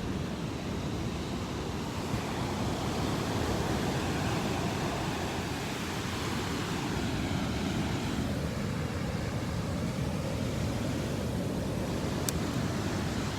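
Sea waves washing up the beach, a steady rushing that swells and eases, with some wind noise.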